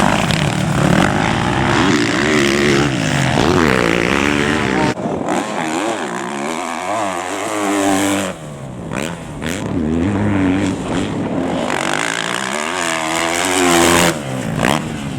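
Motocross bike engines revving up and down, the pitch rising and falling again and again, with abrupt changes about five, eight and fourteen seconds in.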